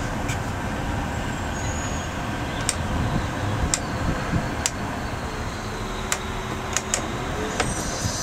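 Heavy truck running: a steady engine and road rumble with sharp rattles and clicks every second or so.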